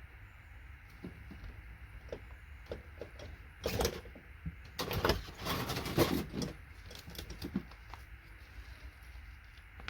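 Scattered small clicks and knocks of tools working on electronic scrap boards, with a louder stretch of scraping and rattling in the middle.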